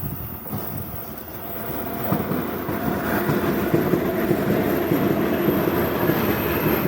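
Container freight train hauled by a 3ES5K 'Ermak' electric locomotive rolling past, wheels clattering over the rails; it grows louder about two seconds in.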